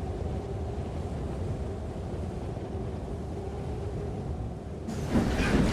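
A steady low rumble. Near the end it gives way to a louder train sound effect, with wheels clattering and squealing on rails.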